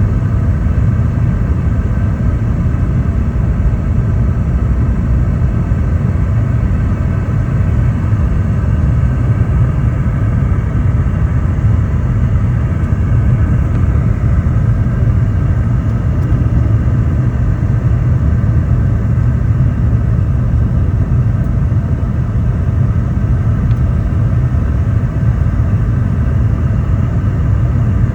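Boeing 717-200 cabin noise: a steady low rumble from the jet's rear-mounted engines and the airflow, heard from inside the cabin.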